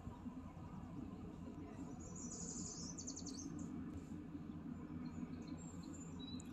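Small birds chirping: a quick trill of rapid high notes about two seconds in, and a few short chirps near the end, over a steady low rumble.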